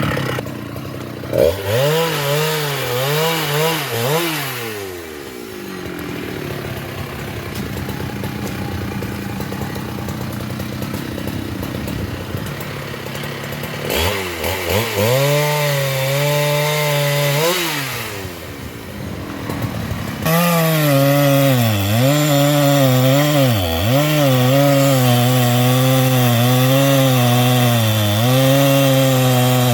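Husqvarna chainsaw revving and cutting into sengon wood, its engine pitch dropping under load and rising again. About two-thirds of the way through it gets louder and runs steadier in the cut, with brief dips in pitch.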